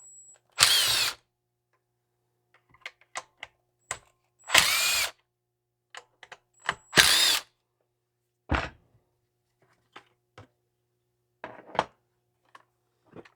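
Cordless drill-driver backing out screws in three short runs of about half a second each, its motor whine rising as it spins up. Small clicks and a single knock come between the runs.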